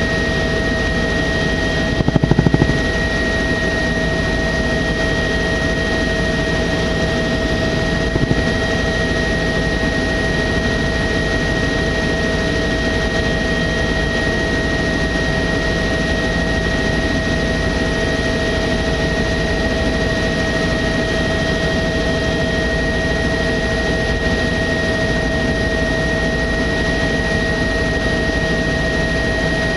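Sightseeing helicopter in flight, heard from inside the cabin: a steady engine and rotor noise with a constant high whine, and a brief louder burst about two seconds in.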